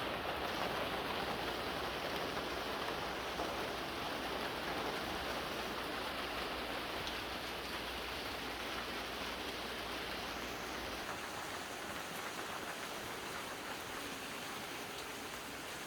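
Steady, even hiss like rain falling, with a low rumble underneath that drops away about eleven seconds in.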